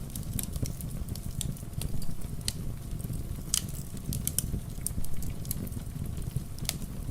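Fireplace fire crackling, with irregular sharp pops and snaps, a few louder ones, over a steady low rumble and the hiss of falling rain.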